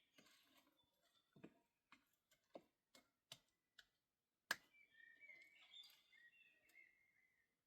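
Faint, irregular clicks and taps, with one sharp, louder click about halfway through, followed by a few seconds of high, wavering chirps.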